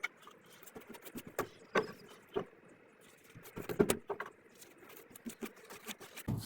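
Paint brush scraping and tapping against the metal base of a swamp cooler as a thick sealing coat is worked onto it: scattered soft knocks and scrapes.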